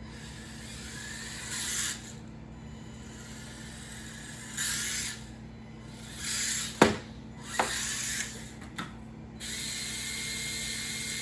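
WLtoys 1/28 hoon truck RC car's small electric motor whining in five short throttle bursts, with tyre noise as the rubber tyres scrub. Three sharp knocks come in the middle, the first the loudest of all; the last burst is the longest.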